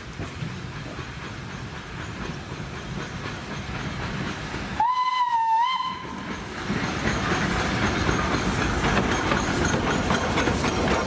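Steam locomotive whistle: one short blast of about a second, dipping slightly in pitch before it ends. Then a steam train runs close by, louder, with steam hissing and wheels clattering over the rail joints.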